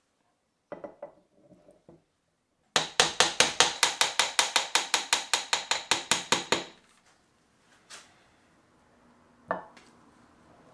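Hand tool working on metal: a few scattered knocks, then a fast, even run of about two dozen sharp taps, about six a second for some four seconds, and one more sharp knock near the end.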